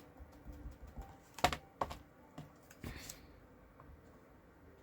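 A few light clicks and taps from stamping supplies being handled on a craft table, the sharpest about one and a half seconds in, then quiet.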